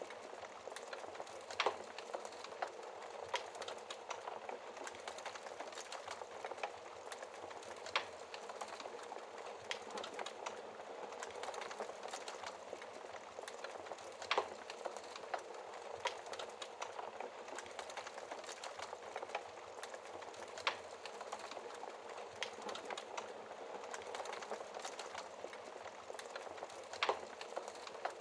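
Wood fire crackling in a fireplace: a steady soft hiss full of small crackles, with a sharper pop about every six seconds.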